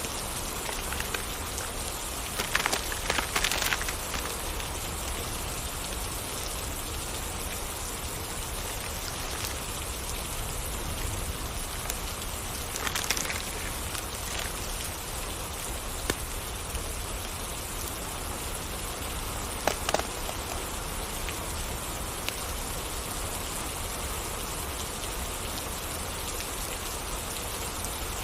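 Steady rain falling. A few sharp pops and crackles stand out over it a few seconds in, about halfway through and about two-thirds of the way through.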